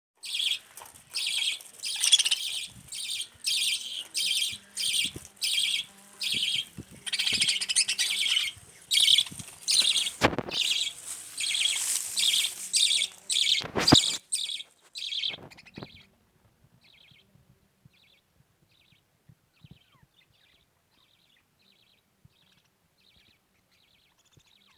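Budgerigars chirping in quick repeated calls, about two a second, with a couple of knocks among them. The calls drop to faint, scattered chirps after about sixteen seconds.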